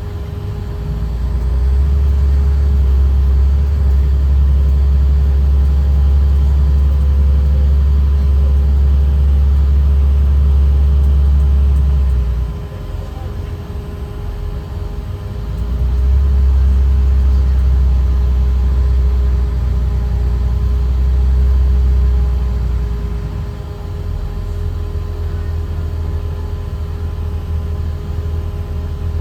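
A Caterpillar C7 diesel engine in a Blue Bird Vision school bus, heard from on board. Its low drone swells loud for about ten seconds, drops back, swells again for about seven seconds, then settles lower, over a steady faint whine.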